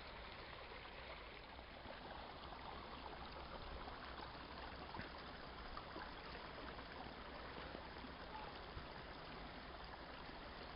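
A small creek running steadily, a soft even burble of water.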